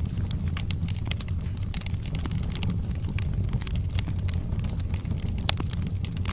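Log fire crackling in a fireplace: irregular sharp pops and snaps of burning wood over a steady low rumble of the flames, with one louder pop near the end.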